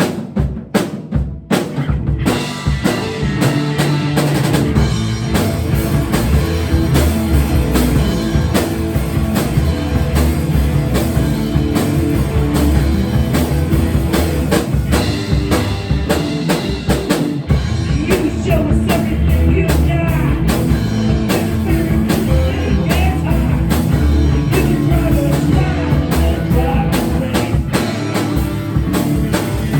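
Loud rock music with a drum kit and bass keeping a steady beat, dipping briefly about two-thirds of the way through.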